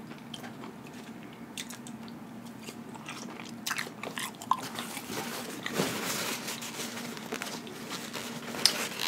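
Close-miked chewing of ketchup-covered french fries, with scattered small mouth clicks and smacks.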